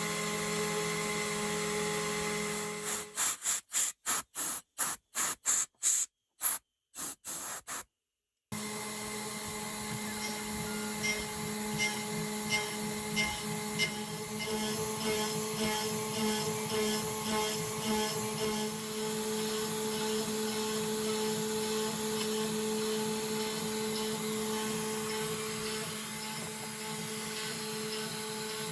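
Home-made CNC router's spindle running with a steady whine as the end mill cuts 6082-T6 aluminium. A few seconds in, the sound is chopped into short bursts with dropouts, then about eight seconds in it runs on steadily, with a light regular ticking for a while.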